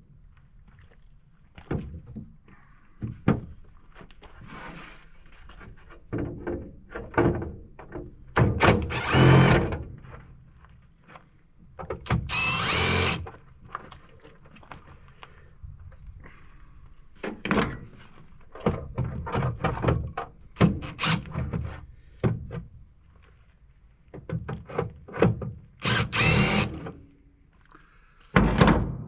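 Handheld power drill-driver run in short bursts of about a second, between scattered knocks and clanks, while dismantling an air-conditioning unit for scrap.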